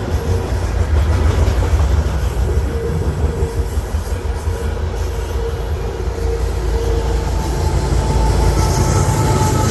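Freight cars of a long mixed manifest train rolling past: a steady heavy rumble of steel wheels on rail, with a thin squealing tone coming and going.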